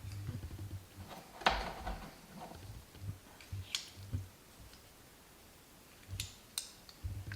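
Scattered light knocks and clicks of sharpening stones and tools being handled and set down, the sharpest about a second and a half in, with a couple more near the end.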